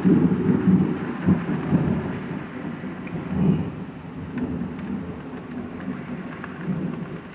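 Thunder rumbling and slowly dying away over steady heavy rain.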